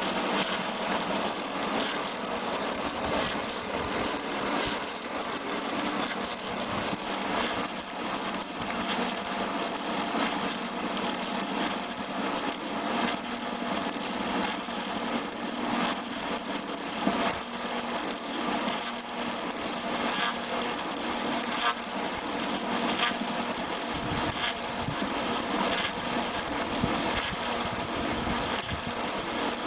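Wood milling-turning lathe for large logs running steadily, its cutter working along a log.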